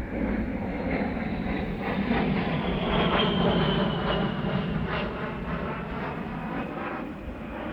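Low-flying military jet passing overhead: a rushing rumble that swells to its loudest about three seconds in, with a high whine falling slowly in pitch as it goes by.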